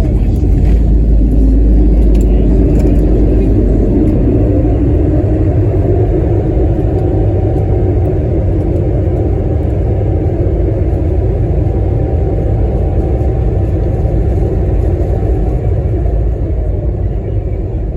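Airbus A321neo cabin noise during landing: a loud, continuous low rumble with an engine whine that rises over the first few seconds, holds, then eases off near the end.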